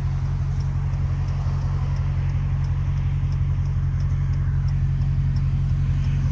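Straight-piped Dodge Challenger Hellcat's supercharged 6.2-litre Hemi V8 idling steadily, with a low, even exhaust note. A faint light tick repeats about every two-thirds of a second.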